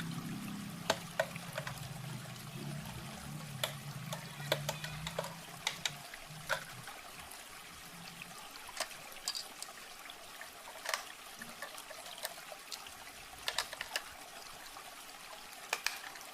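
Scattered small clicks, taps and rustles over a faint hiss: a toy truck and its packaging being unboxed and handled. A low hum fades out about halfway through.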